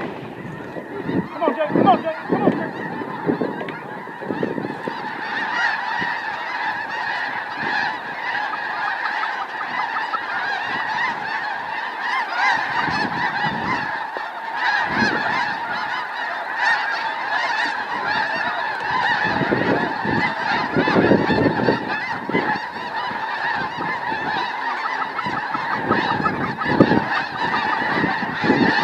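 A large flock of snow geese calling continuously, a dense chorus of many overlapping high honks.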